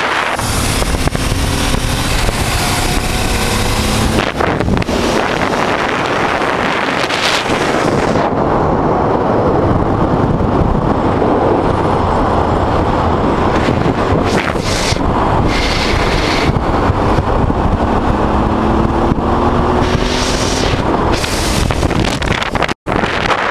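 Wind buffeting the microphone over the running V-twin engine of a 1988 Honda Transalp motorcycle on the move. The engine note rises twice as it accelerates, and the sound cuts out for an instant near the end.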